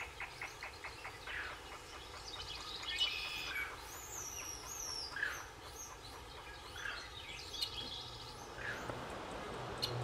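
Forest birds calling: a mix of short chirps and calls from several birds, with a quick run of ticks in the first second and a falling whistle about four seconds in.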